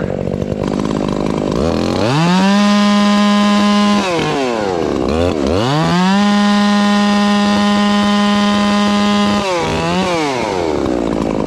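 Ported Makita two-stroke chainsaw idling, then run up to full throttle and held there twice, the second time for about four seconds. A short blip of the throttle follows before it falls back to idle.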